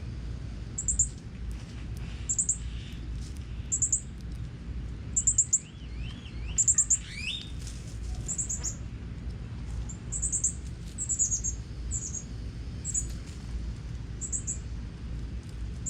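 Songbird chirps: short, very high notes repeated about every second and a half, with a few rising whistled notes about halfway through, over a steady low rumble.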